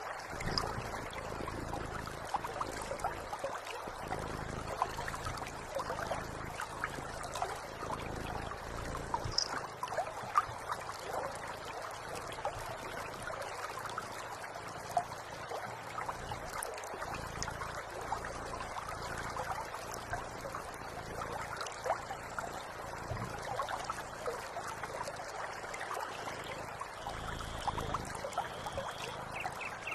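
Water trickling steadily, a continuous run of small splashes and drips without pause.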